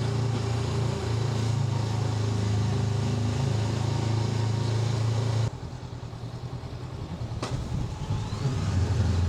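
Honda NX500 parallel-twin motorcycle engine running steadily at low riding speed. About five and a half seconds in it suddenly drops to a quieter, uneven sound, as if the throttle closes, with a single sharp click a couple of seconds later. The engine picks up again near the end.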